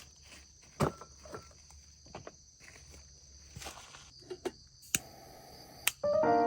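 Insects chirring steadily in a high band, with scattered sharp clicks and knocks close by. Music comes in near the end.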